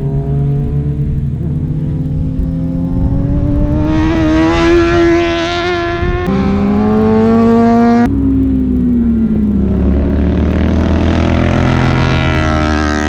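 Superbike engines revving hard as the bikes accelerate, the engine note climbing in pitch. It breaks off abruptly twice, then drops and climbs again.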